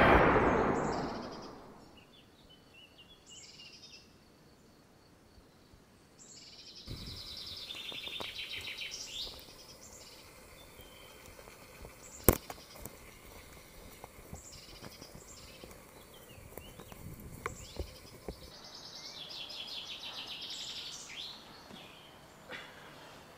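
Birds chirping in woodland in short spells over a faint outdoor background. A loud sound fades away over the first couple of seconds, a single sharp click comes about twelve seconds in, and a few lighter ticks follow a few seconds later.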